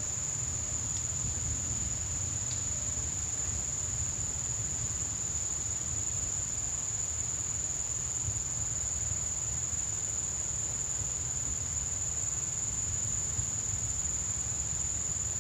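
Steady high-pitched insect trill that does not break or change, over a low steady rumble.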